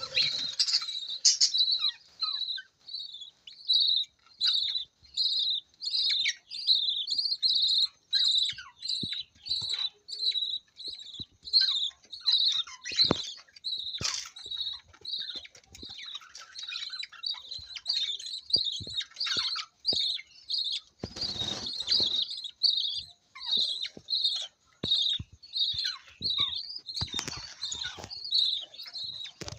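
Budgie chicks in the nest begging while being fed: a steady run of short, high cheeps, about two a second, with occasional faint knocks.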